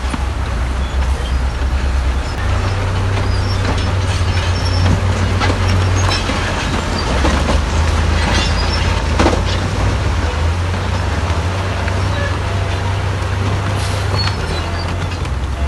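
Bulldozer's heavy diesel engine running steadily under load, a deep drone that swells and eases slightly, with scattered knocks and clatter over it.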